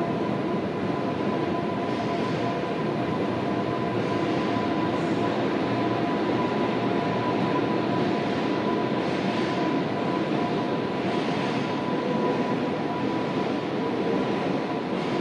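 Steady rushing rumble of an approaching Shinkansen train, not yet at the platform, swelling slightly in the middle, with a faint steady high tone underneath.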